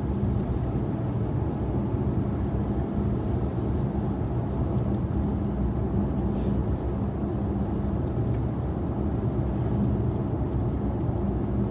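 Steady road noise inside a moving car: a low engine and drivetrain hum under tyre rumble at highway speed.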